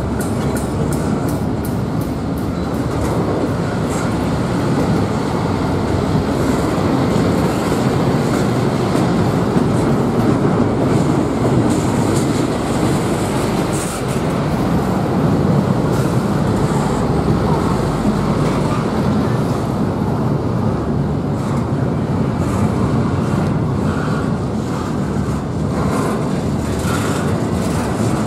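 Freight train rolling past: a steady rumble of rail cars, with the clicking of wheels over rail joints, thickest in the first few seconds.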